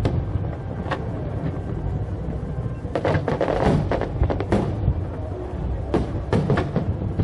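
Fireworks bursting overhead: a string of sharp bangs and crackles, several close together around the middle and again near the end, over a steady low rumble. Music plays underneath.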